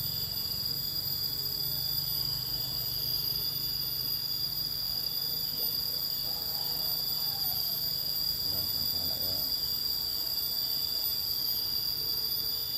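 Steady chorus of insects outdoors: several continuous high-pitched drones layered together, with no break. A faint low rumble runs beneath it.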